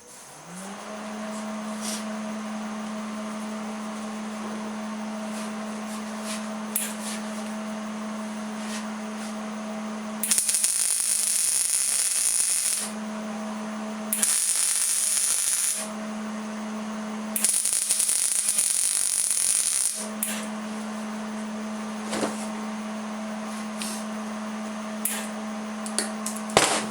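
Electric welder switched on, its hum rising and then running steadily, with three welding bursts of crackling hiss, each two to three seconds long, laying tack welds on the steel table legs. A few light clicks follow near the end.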